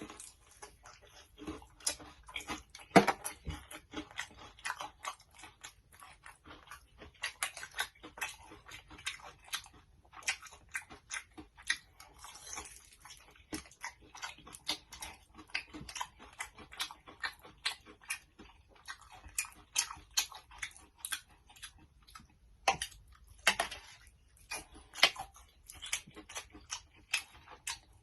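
Close-up chewing of crispy Takis-coated fried chicken: a dense, irregular run of sharp crunches and crackles, loudest about three seconds in.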